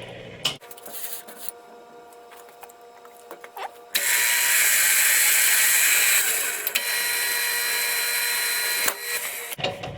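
Milling machine running with a steady hum of spindle tones during power tapping of the blocks. About four seconds in, a loud, even hiss starts suddenly and cuts off about five seconds later.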